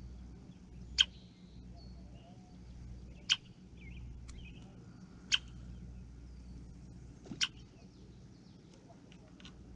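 Bird calling: a sharp, short chip repeated about every two seconds, with fainter twittering between the calls.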